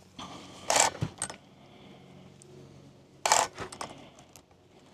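Chainsaw chain being worked by hand around its bar: short metallic rattles and scrapes, a couple of clusters about a second in and again past three seconds. The chain runs rough, as if about to bind up, which the owner suspects comes from a bent bar.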